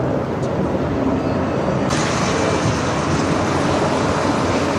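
Steady road traffic noise, with a brighter hiss coming in about two seconds in.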